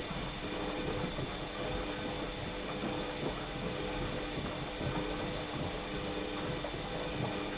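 Washing machine running partway through its wash program, the motor humming with a few steady tones over an irregular rattle of the turning drum.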